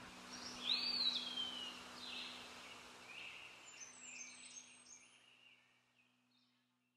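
Birds calling over a steady outdoor hiss: one loud call about a second in that rises, then slides down in pitch, followed by several shorter high calls. A faint low hum runs underneath, and everything fades out near the end.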